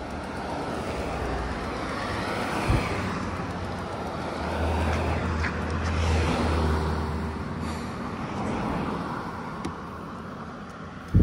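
A motor vehicle passing on the road: engine hum and tyre noise swell over a few seconds, peak in the middle, then fade away.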